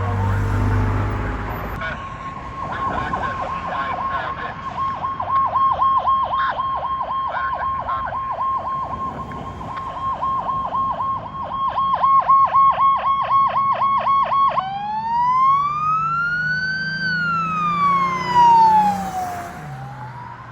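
Fire truck sirens on an emergency run: an electronic siren yelping in fast pulses, about three a second, switching about two-thirds of the way through to a slow wail that rises and falls, after a lower siren tone falling away at the start.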